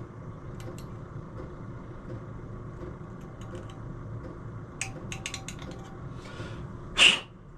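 Small clicks and light scraping of a knife and metal parts being worked at a lip of powder coating on an engine crankcase, with a cluster of clicks about five seconds in and one loud, short, sharp sound near the end, over a steady low hum.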